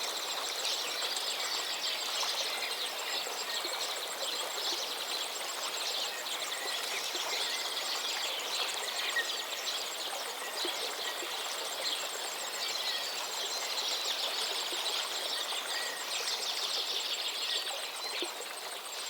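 Many birds chirping over a steady rush of flowing river water, with a thin, fast ticking high above.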